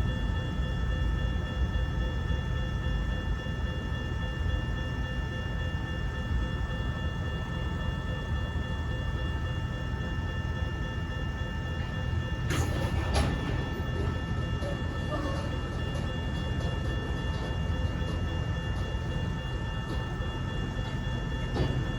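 Freight train running with a steady low rumble and a steady high whine. There is a short cluster of clicks and knocks a little past halfway.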